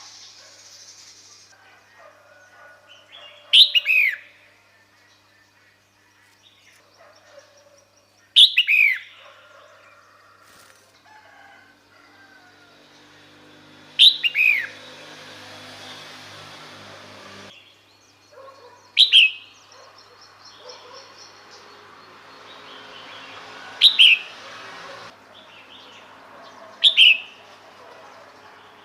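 Red-whiskered bulbul calling: six short, loud calls a few seconds apart, each a quick note falling in pitch. It is the female's call, used to lure males.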